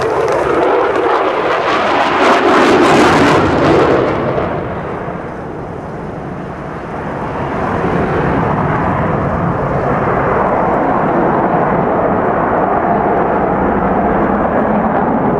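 Jet noise from a Eurofighter Typhoon's two Eurojet EJ200 turbofans during a display. It is loudest and harshest over the first four seconds, fades for a few seconds, then builds back to a steady rushing sound.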